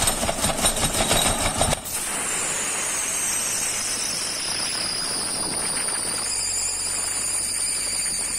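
Mazda 626 engine cold-starting in deep frost: it fires unevenly under cranking for a little under two seconds, then catches and settles into steady running. A frozen drive belt squeals high-pitched over it, the pitch sinking slowly.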